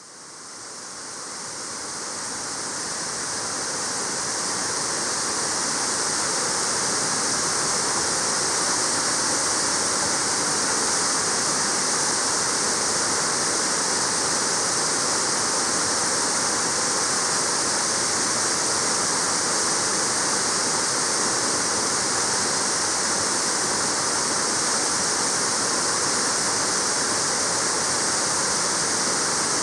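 Waterfall pouring steadily, a dense, even rush of falling water. It fades in over the first few seconds, then holds constant.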